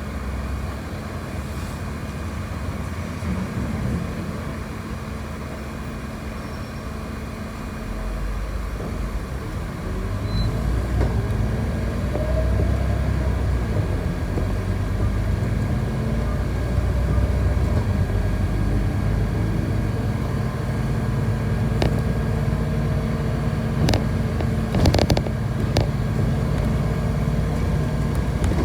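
City bus in motion, heard from inside: a steady engine and road rumble that grows louder about a third of the way through, with a few sharp clicks or rattles in the second half.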